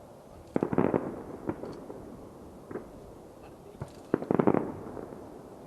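Aerial fireworks shells bursting. A quick cluster of bangs comes just over half a second in, then single reports at about one and a half, two and three-quarter and just under four seconds, then another rapid cluster at about four and a half seconds.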